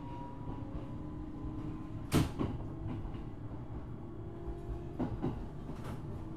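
JR East 701 series electric motor car running, heard from inside: a steady rumble of wheels and running gear with faint steady motor tones. A sharp wheel clack over a rail joint comes about two seconds in, and a pair of lighter clacks near the end.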